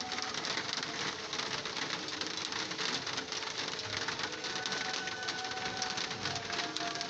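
Heavy rain falling: a dense, steady patter of countless fine drop hits. Faint held tones come and go beneath it.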